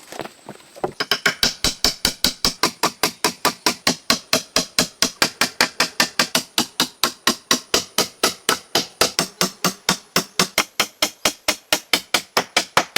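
Rapid, even striking blows, about five a second, beginning about a second in after a few scattered knocks.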